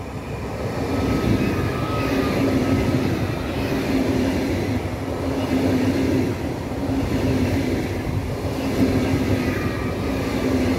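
PKP Intercity ED250 Pendolino high-speed electric train passing close along the platform: a steady rumble of wheels on rail with a low hum that comes and goes, getting louder during the first second as the train arrives.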